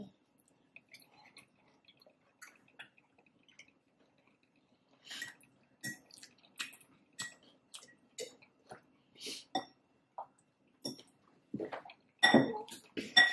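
Close-miked eating: chewing taco salad, with short, irregular crunchy and wet mouth sounds that start about five seconds in and grow louder near the end. The first few seconds hold only faint ticks.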